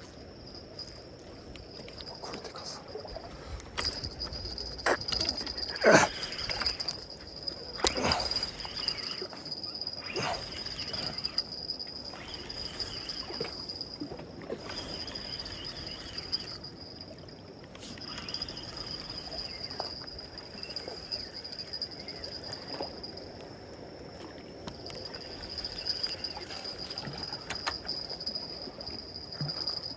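Insects chirping in a steady high-pitched drone, with a few sharp knocks or splashes between about four and eleven seconds in, the loudest about six seconds in.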